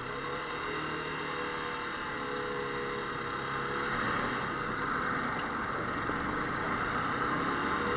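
Motorcycle engine running while under way, mixed with wind and road noise; the sound builds slightly toward the end.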